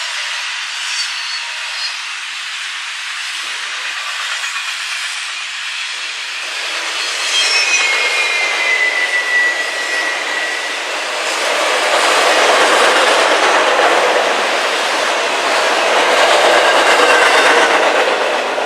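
A train rolling past on the rails, with a high wheel squeal partway through, and growing louder as more cars pass.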